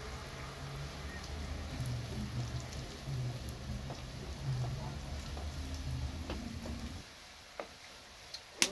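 Potato fries frying in hot oil: a steady crackling hiss over a low hum, which drops away about seven seconds in.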